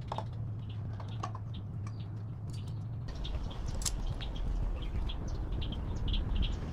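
Short, high chirps repeating over and over, like small birds calling, over a steady low hum that changes to a rougher low rumble about three seconds in.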